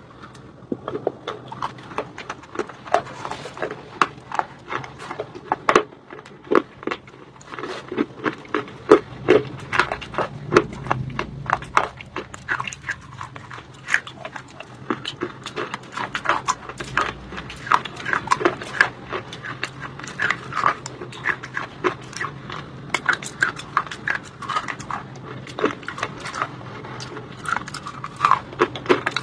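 Close-up crunching and chewing of white shale stone in the mouth: dense, irregular sharp crunches, several a second, with wet mouth sounds.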